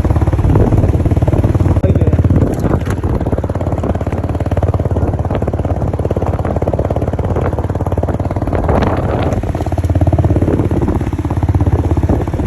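Motorcycle engine running under way, a steady low drone with a fast, even firing pulse.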